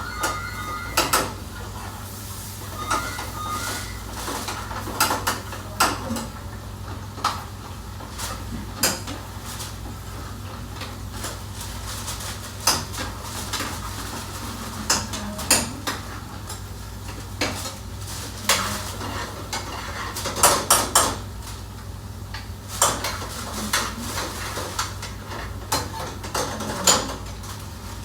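Metal pots, pans and cooking utensils clattering and scraping at irregular intervals in a busy commercial kitchen, over a steady low hum.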